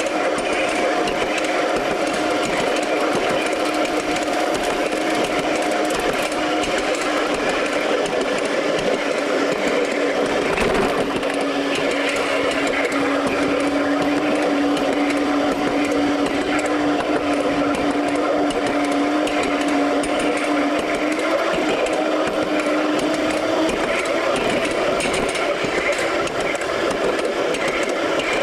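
A 5-inch gauge ride-on miniature train running along its track. It makes a steady mechanical whir with a humming tone that shifts a little in pitch partway through.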